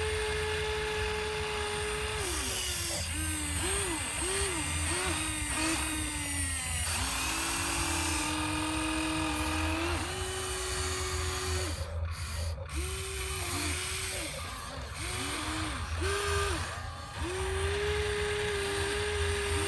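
Whine of a remote-control construction toy's small electric motors: a steady tone broken by many short starts and stops, the pitch rising and falling with each burst of operation.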